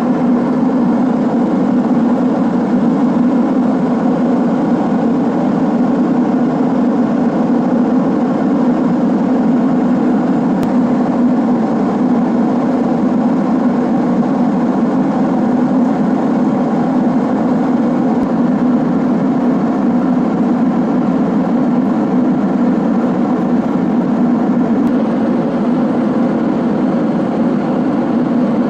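Steady cabin drone of a Boeing 767-300ER airliner in flight: engine and airflow noise, strongest in a low hum, unchanging throughout.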